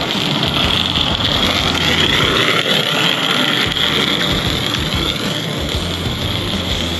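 G-scale garden railway train running on the track: a steady rolling, mechanical noise with a faint high whine that drifts in pitch.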